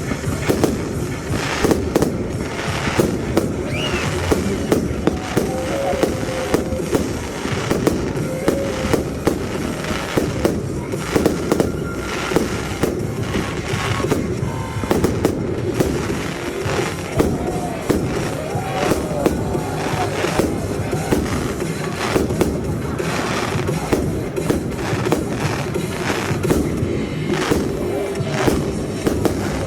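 Fireworks display: aerial shells going off in quick succession, many sharp bangs and cracks close together, over show music.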